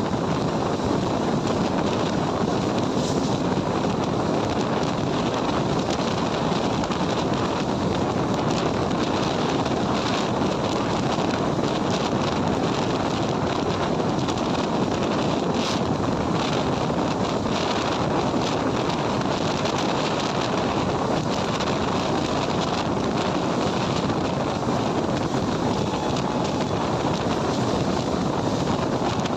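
Steady rush of wind on the microphone over the running noise of an Indian Railways passenger train moving at speed, heard from an open window beside the coaches.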